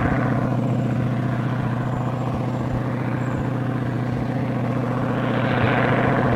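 Propeller aircraft engine, the 1931 Waco QDC's radial engine, running steadily with a broad rush of propeller and air noise that swells louder about five seconds in.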